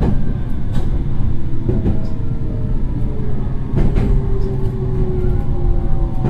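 Meitetsu 3100 series electric train running, heard from on board. There is a steady rumble of wheels on rail with a few sharp clacks over rail joints, and the motor whine falls slowly in pitch as the train slows.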